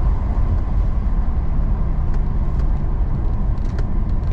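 American police car's engine running at a steady pace, with road and tyre rumble, heard from inside the cabin.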